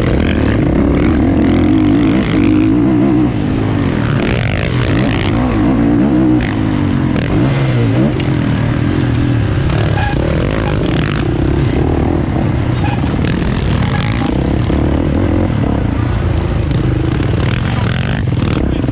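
450cc motocross bike engine revving up and easing off over and over, its pitch rising and falling as the bike is ridden hard around the track.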